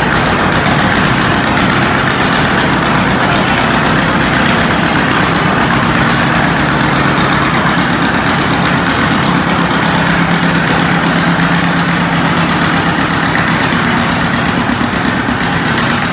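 Antique pulling tractor's engine running hard and steady at high speed under load, pulling the weight-transfer sled down the track.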